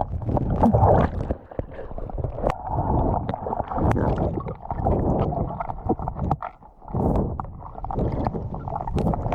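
Muffled water sounds of a swimmer diving: bubbling, gurgling and sloshing, dull and cut off at the top as heard through a waterproof camera housing, with a few sharp clicks.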